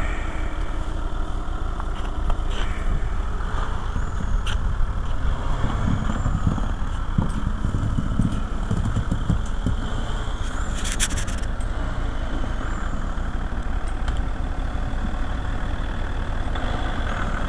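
A vehicle engine running steadily while it pulls a boat out of the water. A few short knocks come through, and there is a brief hiss about eleven seconds in.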